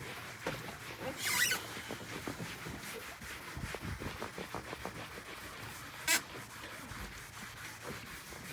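Magic eraser scrubbing a vinyl boat seat wet with mold-and-mildew cleaner: repeated rubbing strokes with high squeaks of the foam on the vinyl. The loudest squeak comes about a second in, and a short sharp one about six seconds in.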